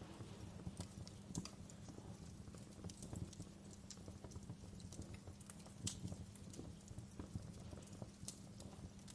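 Wood fire crackling in a fireplace: irregular snaps and pops, a few sharper than the rest, over a steady low rumble.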